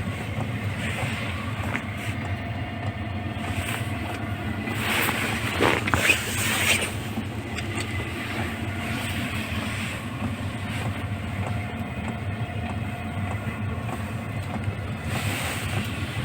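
Diesel tent heater running steadily: a low, even fan hum with a faint steady tone. A few brief louder rustles come about five to seven seconds in.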